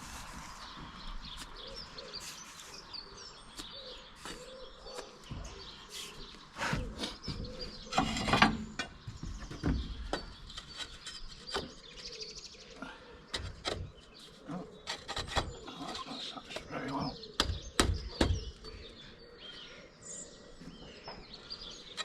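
Irregular knocks and taps of hand work on roof tiles: a hammer nailing tiles and tiles clinking against each other.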